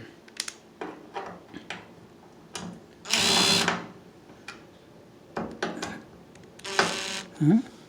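Cordless power screwdriver or drill spinning in two short runs, about half a second and then shorter, with clicks and knocks of handling between them, as it tries to undo a screw on a microwave's outer casing. The bit does not fit the screw's security Torx head.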